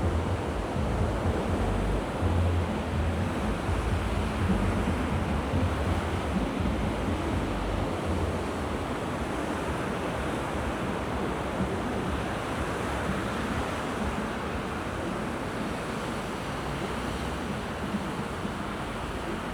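Sea waves washing onto the shore in a steady wash of surf. A low rumble of wind on the microphone is stronger in the first half and eases off later.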